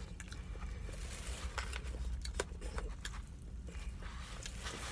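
Close-up eating of rotisserie chicken: irregular soft chewing and smacking clicks over a low steady hum.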